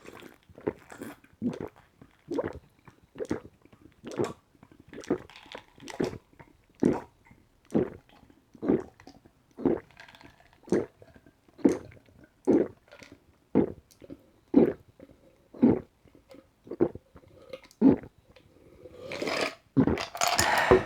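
A person drinking in steady gulps, one swallow about every second, close to the microphone. Near the end comes a longer, louder breathy sound.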